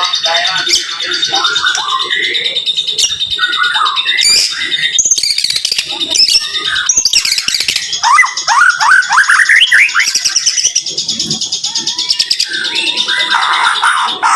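White-rumped shama (murai batu) singing a fast, dense song of whistles and trills, with a run of quick upward-sweeping notes about halfway through.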